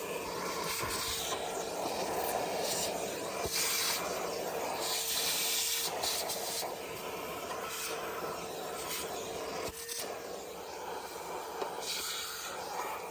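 Repeated bursts of hissing as the inside of a heat pump's outdoor condensing unit is cleaned out, over a faint steady tone that stops about ten seconds in.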